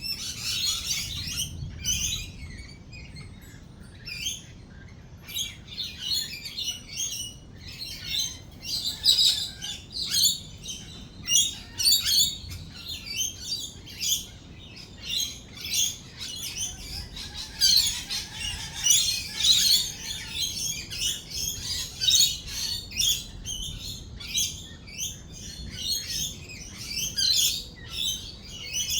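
A flock of lorikeets chattering and screeching: many short, shrill calls overlapping without pause, busiest a little past the middle.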